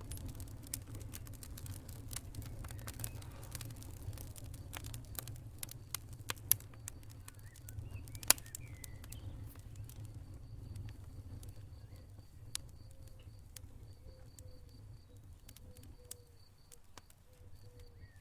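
Campfire burning, crackling steadily with frequent sharp pops over a low rumble of the flames; two louder pops come about six and eight seconds in.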